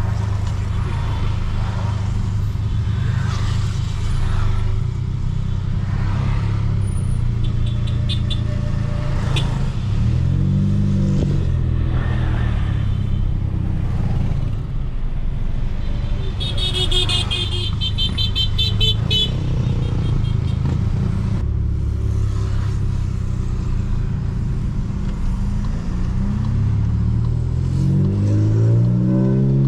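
Volkswagen Polo GTS turbocharged engine with Stage 2 tune and sport exhaust, pulling with a steady low drone. It revs up twice, about a third of the way in and again near the end. A brief high chirping sound is heard a little past the middle.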